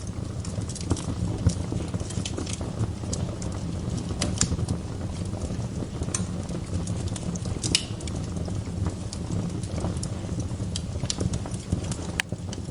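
Wood fire burning in a fireplace: a steady low rumble of flames with scattered sharp crackles and pops. One of the louder pops comes about two-thirds of the way through, and another comes near the end.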